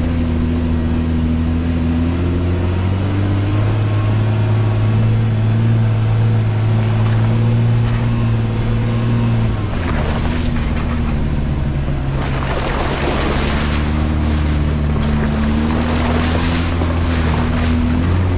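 Jeep Wrangler engine running steadily as it climbs a gravel trail, its pitch dropping a few seconds in and again about ten seconds in, then rising near the end. A rushing noise joins in from about twelve seconds in.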